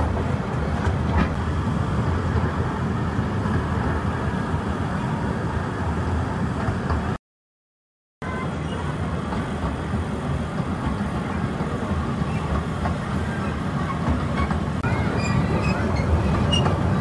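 Steady rumble of a park's open-carriage tourist train running along its track, heard from aboard. The sound cuts out completely for about a second near the middle.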